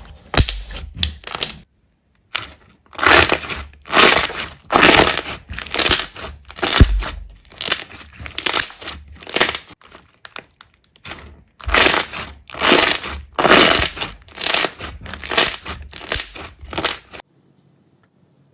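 Slime being squeezed and pressed by hand, a long run of crackling squishes about one a second, with a short pause partway through, stopping abruptly near the end.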